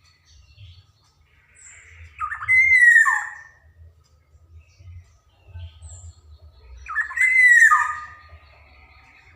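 Black-naped oriole (kepodang emas) giving two loud calls about four and a half seconds apart. Each is a harsh call over a clear whistled note that drops away at the end.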